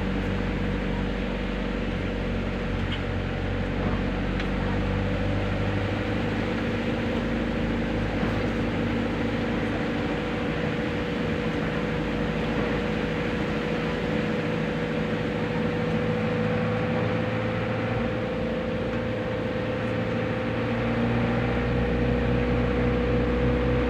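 Steady road and engine noise inside a moving car, with a low hum and a faint whine that slowly rises in pitch; a little louder near the end.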